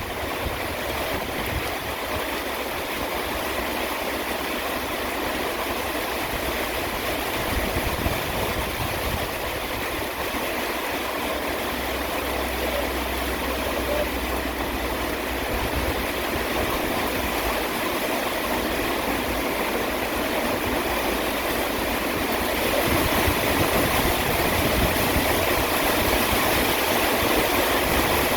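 Steady rain, an even hiss that grows a little louder near the end, with a low hum underneath.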